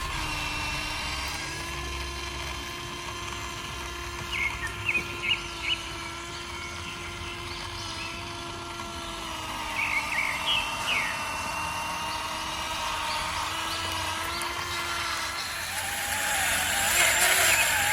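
Small electric motor of a radio-controlled construction model whining steadily at a nearly constant pitch, with short high chirps twice.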